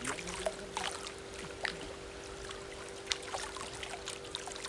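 Light water splashes and lapping in a swimming pool, a series of short irregular splashes over a steady faint hum.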